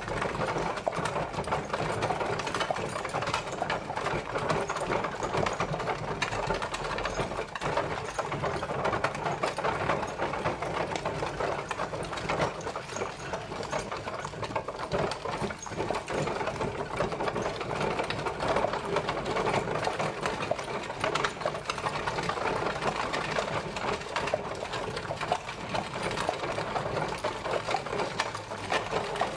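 Horse-drawn carriage travelling: a continuous, dense rattling of the wheels and coachwork, without a break.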